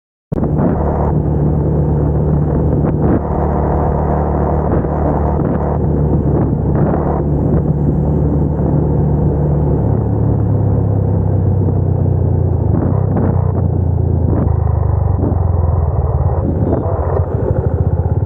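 Suzuki Gixxer 250's single-cylinder engine running steadily under way, heard from on board the moving motorcycle; the engine note changes about ten seconds in.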